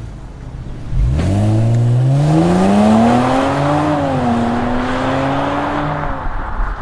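2018 Kia Stinger GT's twin-turbo 3.3-litre V6 through a Thermal R&D catback exhaust, accelerating hard. The engine note climbs steeply from about a second in, dips briefly near four seconds, holds, then drops away near the end.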